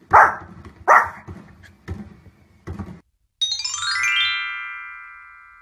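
Small fluffy dog barking: two sharp barks, then two fainter ones. About three and a half seconds in, a short musical sting plays, a quick falling run of notes into a held chord that slowly fades.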